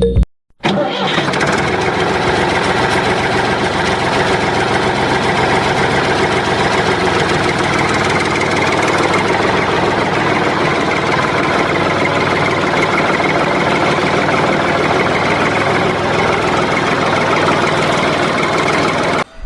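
Small engine running steadily. It cuts in abruptly after a brief silence about half a second in and stops just before the end.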